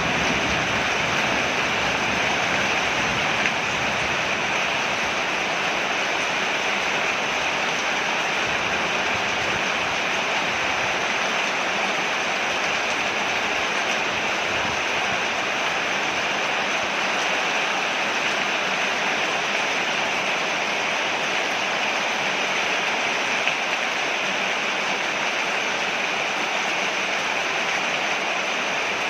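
Steady rain falling on a porch, an even, unbroken hiss.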